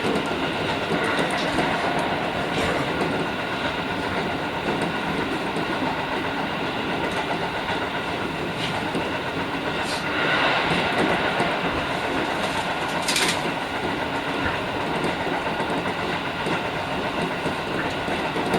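JR Kyushu 415 series electric train running, heard from inside the front car: steady rolling noise of wheels on rail, with occasional sharper clacks.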